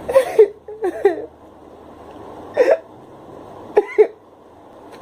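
A series of short, sharp vocal yelps, about six of them, mostly in pairs, over a faint steady hiss.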